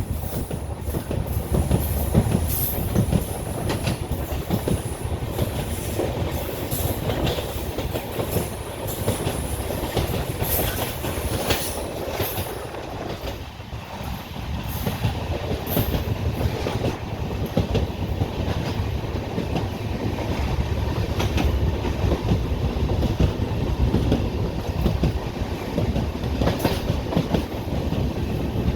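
Passenger train coaches rolling along the track, steel wheels clattering over the rail joints with a continuous rumble. A thin high squeal runs through roughly the first half and then stops.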